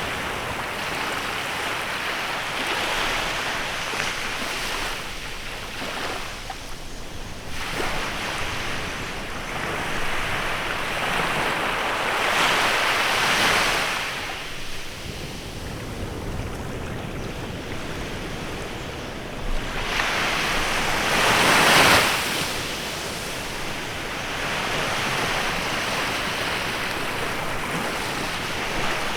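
Waves breaking and washing up a beach in a bay: a steady wash of surf, with two louder surges, one about halfway through and the loudest a little after two-thirds of the way in.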